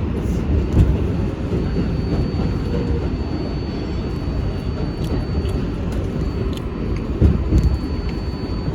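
Interior noise of an R188 subway car on the 7 line: a steady low rumble with a thin steady high tone, a few light clicks, and short louder swells just under a second in and about seven seconds in.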